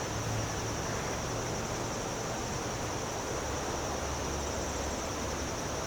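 Steady, high-pitched insect chorus, crickets by the sound of it, over a low, even rumble.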